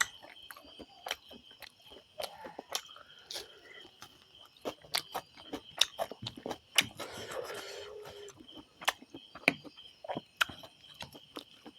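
Close-up mouth sounds of someone eating rice and curry: an irregular run of sharp, wet chewing clicks and smacks, with a longer breathy noise about seven seconds in. A steady high-pitched whine sits behind it.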